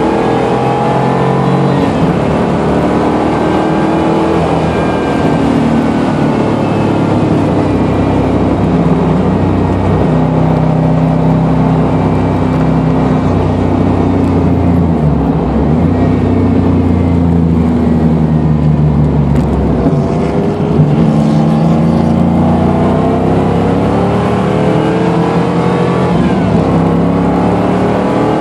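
1989 Pontiac Firebird Trans Am's engine, heard from inside the cabin while lapping a race track: its pitch climbs under acceleration, settles lower through the middle, and climbs again near the end. Heavy road and wind noise runs underneath.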